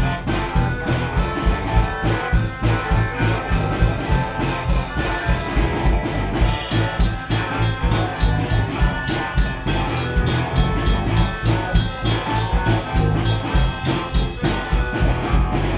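Gypsy rock band playing an instrumental passage live, with drums keeping a fast, steady beat over bass, and guitar and accordion. About six seconds in, the bright high wash thins out, leaving crisper drum hits.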